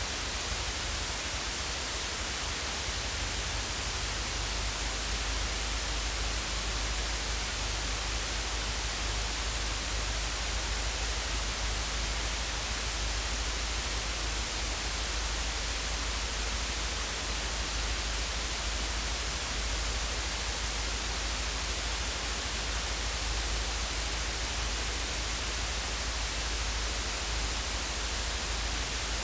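Steady static-like hiss over a low rumble, unchanging throughout with no distinct engine note or events: the recorded cockpit noise of a Luscombe light aircraft.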